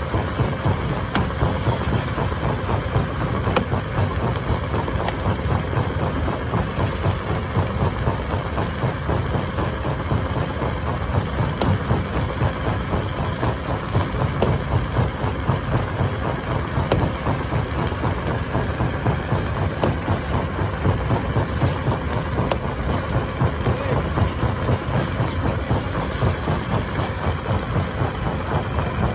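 Stone crusher machine running: a steady, dense low mechanical rumble with a rapid, irregular rattle throughout.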